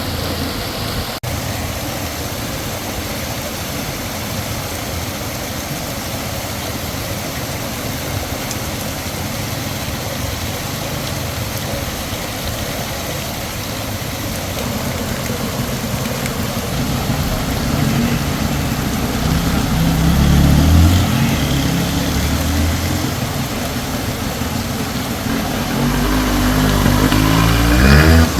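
Heavy rain falling in a steady downpour with water running, and a low rumble that swells twice in the second half.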